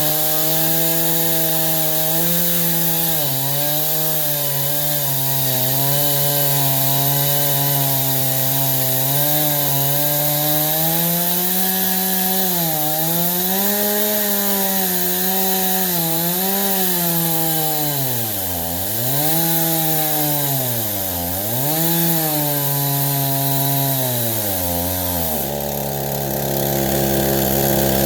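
Two-stroke Stihl chainsaw in an Alaskan chainsaw mill, ripping a pine log lengthwise at high revs. The engine pitch wavers constantly and dips deeply several times past the middle as the saw bogs under the load of the cut.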